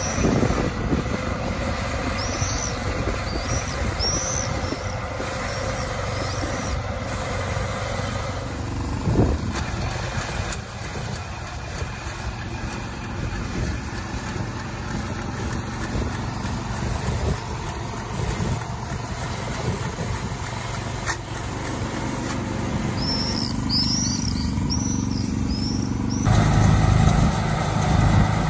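Tractor and hay baler running steadily, a dense mechanical clatter, with birds chirping over it twice. Near the end it switches abruptly to a louder, deeper-running machine.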